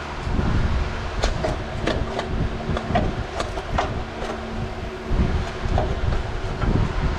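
Irregular metallic clinks and taps, about a dozen with a short ring after each, over a steady low rumble and faint hum.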